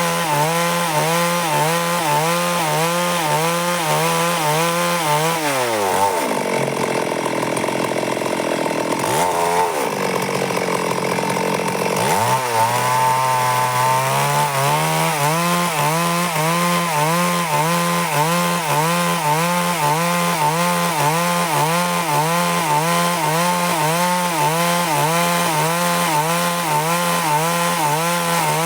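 Stihl MS 382 two-stroke chainsaw running at high revs as it cuts through wood, its pitch wavering slightly. About six seconds in, the engine speed drops and stays low and uneven for several seconds, then climbs back to full speed.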